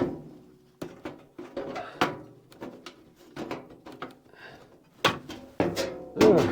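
Irregular knocks and clunks of wood and tools being handled, eight or so separate strikes with a louder cluster near the end.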